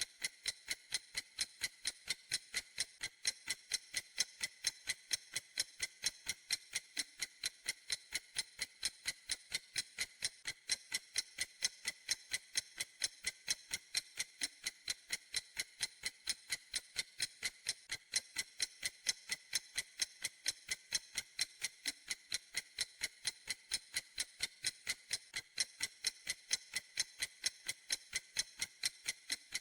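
Clock ticking in a steady, even rhythm of sharp, high-pitched ticks.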